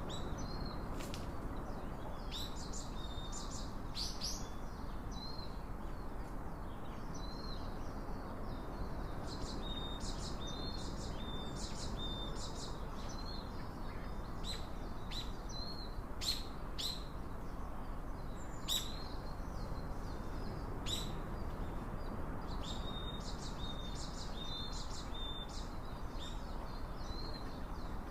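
Small birds chirping, with many short high calls and clicks coming in quick runs, over a steady low rush of outdoor background noise.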